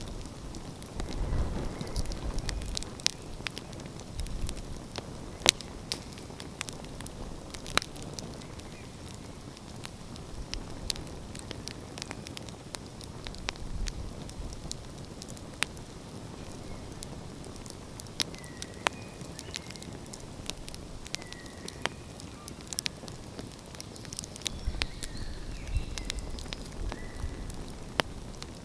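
Wood fire crackling, with sharp irregular pops and snaps. A low steady rumble runs underneath and swells about a second in and again near the end.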